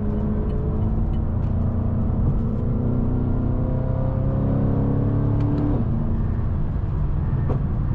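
BMW M550i's twin-turbo V8 engine pulling under acceleration, its note climbing slowly for about six seconds and then dropping suddenly.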